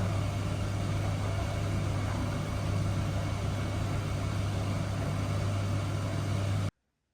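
Miele W1 washing machine running with a steady low hum and a noisy wash over it; the sound cuts off suddenly near the end.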